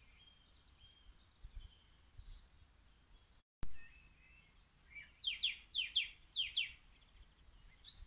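Faint birdsong. About halfway through the sound drops out briefly and comes back with a click. Then a bird sings a quick run of about seven falling notes.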